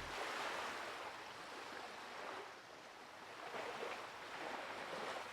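Faint ocean waves washing in and drawing back, the sound swelling and easing every second or so.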